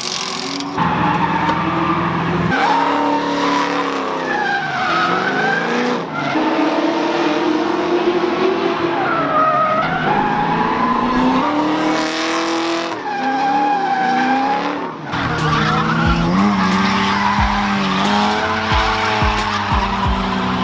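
Drift car engine revving up and down again and again with tyres squealing through the slides. About 15 seconds in the sound changes suddenly, and low thumps come in near the end.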